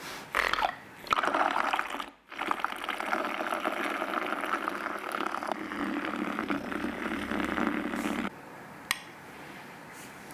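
Water flowing in a steady stream, briefly broken about two seconds in, then stopping suddenly about eight seconds in. A single light click follows shortly after.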